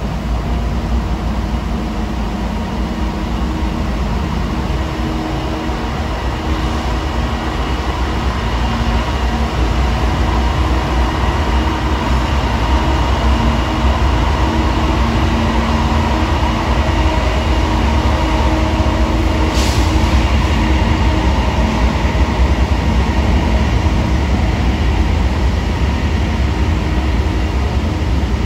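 Coal train passing with its diesel locomotive and loaded cars: a steady low rumble of engines and wheels on rails that grows somewhat louder toward the middle. There is one brief high screech about twenty seconds in.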